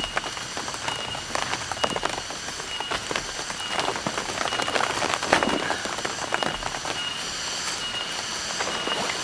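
Rain falling in a forest, with many sharp drops tapping on nearby surfaces. A short high note repeats roughly once a second, and a high pulsing chirr rises and falls over the rain.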